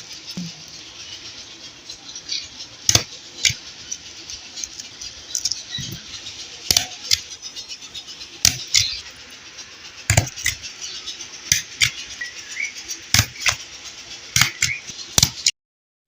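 Sharp clicks and taps at irregular intervals, about one or two a second, over a light rustling hiss, as small objects are handled. It cuts off abruptly near the end.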